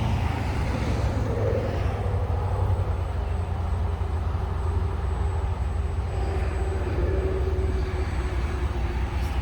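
Diesel-electric locomotives, EMD SD40-2 units, running with a steady low rumble and a faint hum.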